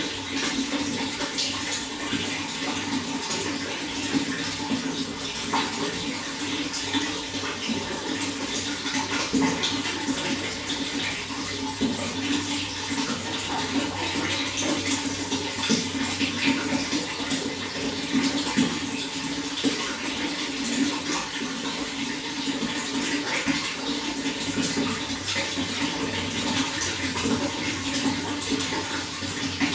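Running water flowing and splashing steadily, with many small irregular splashes over a continuous rush.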